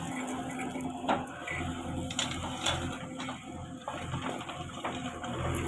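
Diesel engine of a JCB 3DX backhoe loader running with a steady low hum, with scattered knocks and clatter from the machine at work.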